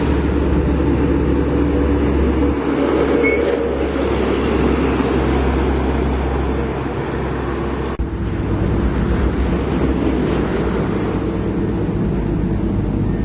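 Large diesel engine of heavy equipment running steadily with a deep hum. The tone shifts abruptly about eight seconds in.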